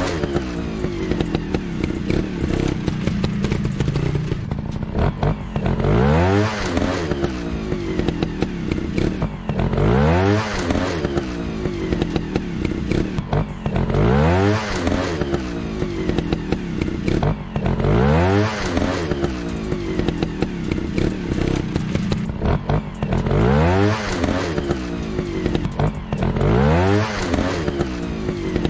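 Dirt-bike engine sound revving up and dropping back again, over and over, about every four seconds, above a steady running drone.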